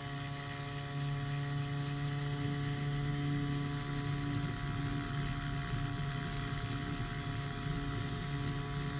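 Powered hang glider's engine and propeller running steadily at a constant pitch, with air noise over the microphone.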